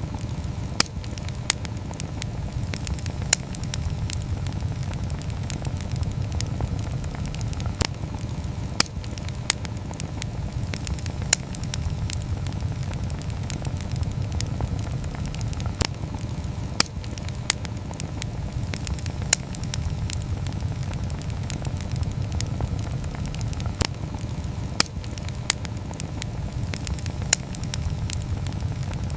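Wood campfire burning with a steady low rumble of flame, broken by sharp crackles and pops at irregular intervals, about a dozen loud ones across the stretch.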